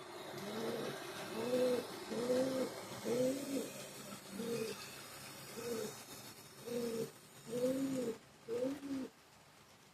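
A dove cooing: a run of about nine short coos, each rising and falling, stopping suddenly about nine seconds in.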